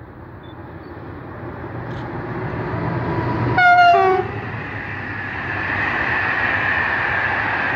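SNCF BB 26000-class electric locomotive hauling Corail coaches passing at speed, its running noise building. About three and a half seconds in, it gives a short horn blast that ends on a lower second note. The steady rumble of the coaches on the rails follows.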